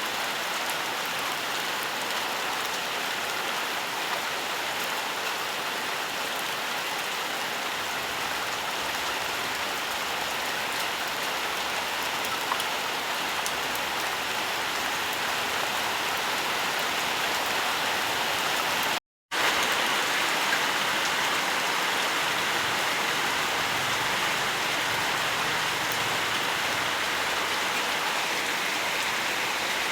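Steady rainfall, an even hiss of many drops. About two-thirds of the way through it cuts out completely for an instant, then resumes.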